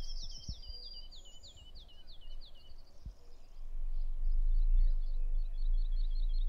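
Songbirds singing: a run of quick falling chirps over the first two and a half seconds, then a fast trill of repeated notes from about four seconds in. Under the trill a low rumble grows louder.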